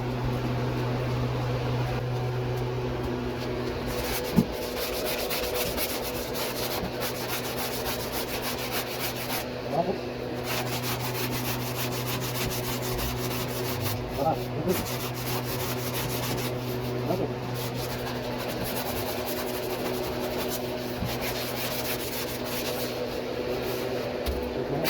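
A power tool's abrasive wheel grinding down sheet metal around a rust-hole patch on a pickup bed side panel. It runs in long steady passes over a constant motor hum, with short breaks about ten, fourteen and seventeen seconds in.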